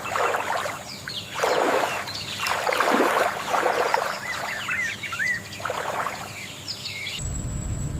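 Birds calling in mangrove ambience: a string of rough, noisy calls about once a second, with a few short chirps about halfway through. Near the end it switches to a steady low rushing noise.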